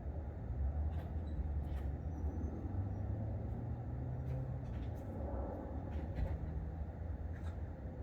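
Low rumble of road traffic, a vehicle engine droning past, with a few faint clicks.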